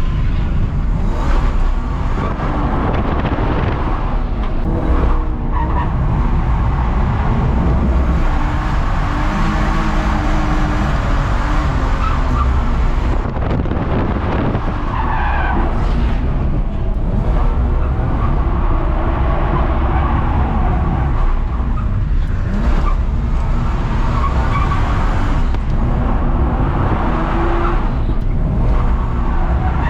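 BMW E46 325Ci's straight-six engine revving up and down under a steady low rumble, with tyres skidding as the car drifts.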